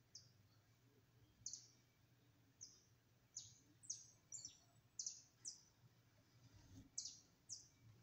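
A small bird chirping faintly: about ten short, high calls, each dropping quickly in pitch, at uneven intervals.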